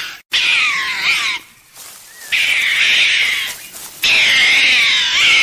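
An animal calling: three loud, high, wavering cries, each lasting about a second, with short pauses between them.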